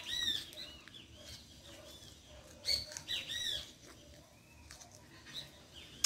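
Birds chirping: clusters of short, arching high-pitched chirps, loudest at the start and again around three seconds in.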